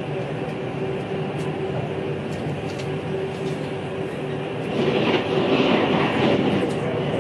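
A vehicle running: a steady rumble with a constant hum, growing louder about five seconds in.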